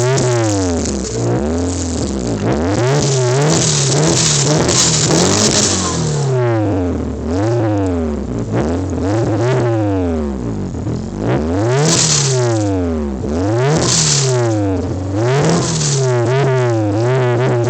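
Kia Sephia's four-cylinder engine revved over and over through an aftermarket 3A Racing muffler, the pitch climbing and falling about once every one to two seconds.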